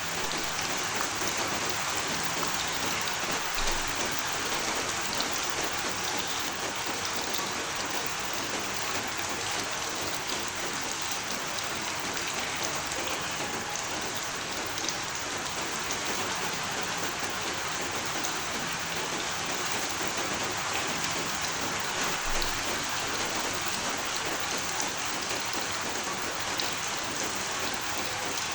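Steady rain falling on surfaces, an even hiss with scattered individual drops ticking through it.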